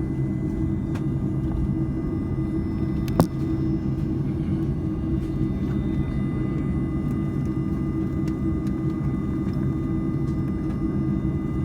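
Cabin noise inside an Airbus A310-304 with its GE CF6-80C2 turbofans idling on the runway before the takeoff run: a steady low rumble with a constant thin whine above it. A single sharp click sounds about three seconds in.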